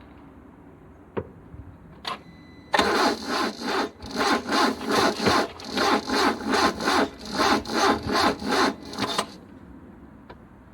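A starter motor cranks a cold petrol car engine for about six seconds in even pulses, roughly two and a half a second. It then stops without the engine catching. A click and a short whine come just before the cranking.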